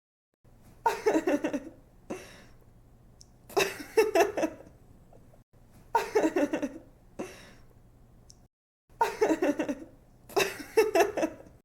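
A young woman giggling: several short bursts of quick, breathy laughter with brief pauses between them, the same laugh looping over.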